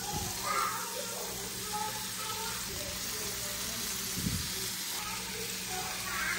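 Steady sizzle of tomato slices frying in a pan on a gas stove, with one soft low thump about four seconds in.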